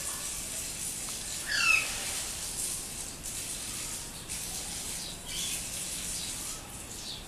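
A pet Alexandrine parakeet giving one short squawky call about a second and a half in, a quick run of falling notes, then a couple of fainter chirps later, over a steady background hiss.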